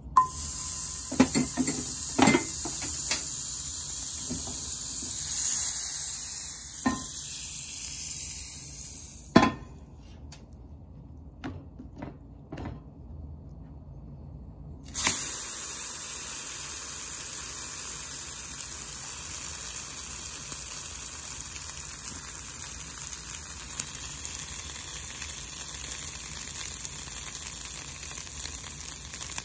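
Butter sizzling in a hot frying pan, with sharp clicks from a knife against the pan as the butter is cut in during the first few seconds. The sizzle drops away for about five seconds in the middle, then comes back as a steady sizzle as a slice of French toast fries in the butter.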